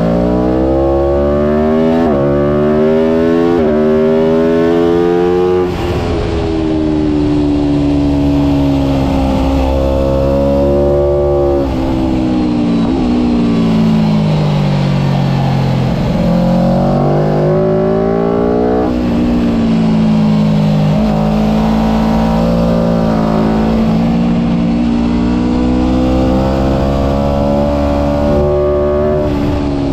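Aprilia RSV4 1000 RF's V4 engine at full throttle. The pitch climbs with quick drops at each upshift in the first few seconds, then falls as it slows into corners and climbs again as it drives out, several times over.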